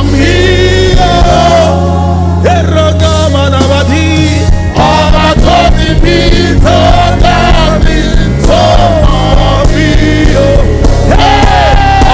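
Live gospel worship music: sung Yoruba worship chorus with vibrato over band accompaniment, with steady bass notes and a regular beat.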